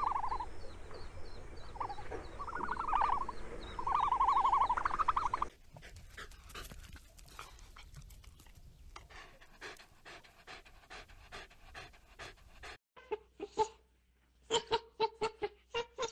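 A few short rising calls, then a dog panting fast and evenly for about seven seconds. Near the end come quick, short squeaks from a young macaque.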